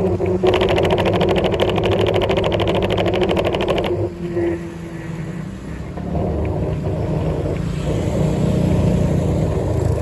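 Vehicle noise on the road: a steady low rumble, with a fast, even rattling buzz that stops suddenly about four seconds in.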